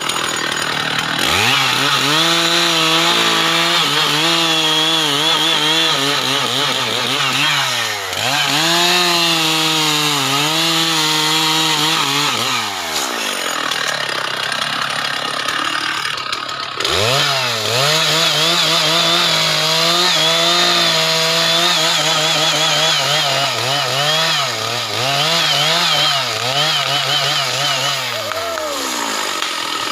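Stihl MS 660 two-stroke chainsaw running at full throttle, its pitch sagging and recovering again and again as it works through the cut. About 13 seconds in it drops off for a few seconds, then revs back up to speed and cuts on.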